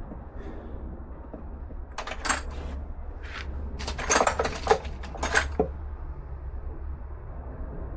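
Metal hand tools clinking and clattering as they are rummaged through, in a few sharp knocks about two seconds in and a busier run of them from about three and a half to five and a half seconds, over a steady low hum.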